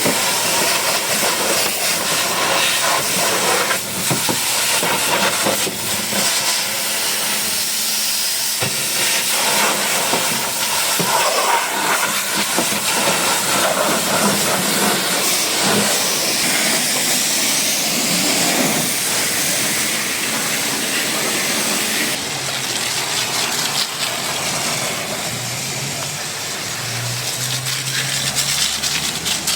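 High-pressure washer spraying water against a car, a steady loud hiss that changes character about two-thirds of the way through.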